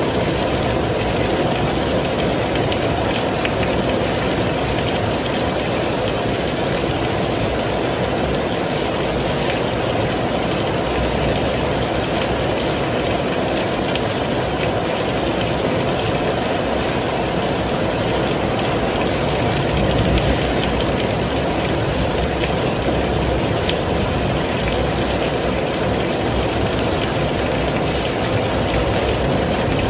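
Heavy rain falling steadily: a dense, even hiss with a deep low rumble, unchanging throughout.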